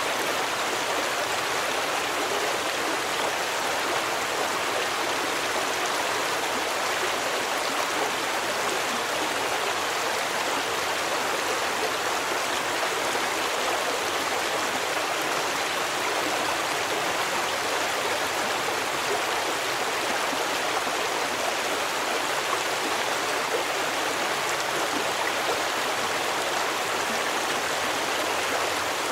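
A stream of running water, an even, unbroken rushing that holds steady throughout.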